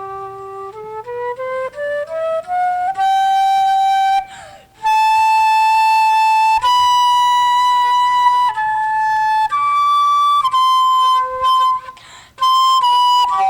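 Solo flute playing a slow melody: a rising run of short notes, then long held notes, with brief breath pauses about four seconds in and near the end.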